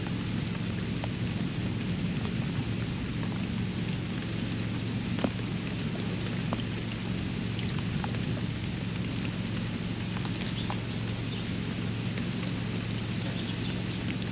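Steady rain falling on a backyard pond, with scattered single drops striking close by, over a constant low hum.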